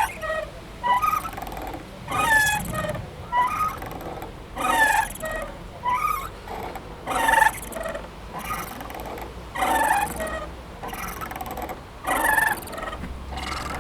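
Playground swing squeaking as it swings back and forth, a short creaky squeak about every second and a bit, the pitch bending within each squeak.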